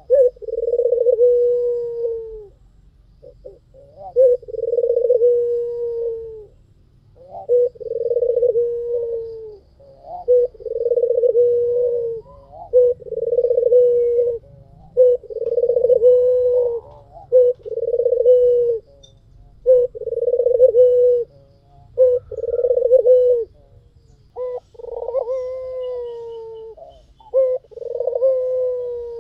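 White puter dove (white domestic turtle dove) cooing in a steady series of long, low coos, about one every two seconds, many led by a short note.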